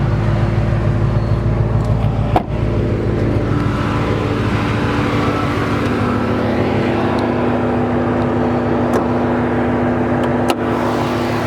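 Chrysler 300 SRT8's 6.1-litre Hemi V8 with Flowmaster exhaust idling steadily, with a brief click about two and a half seconds in and another near the end.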